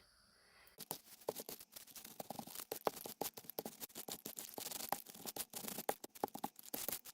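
Quick scratching and rustling of paper and craft supplies being handled, a dense run of small clicks starting about a second in.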